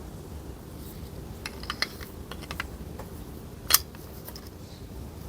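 Light clicks and taps of metal gearbox parts being handled on the bench: a scattered run of small clicks, then one sharper click near the end.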